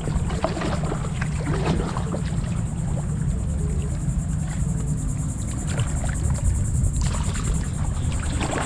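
Water lapping and splashing against a kayak hull, with a steady low rumble of wind on the microphone.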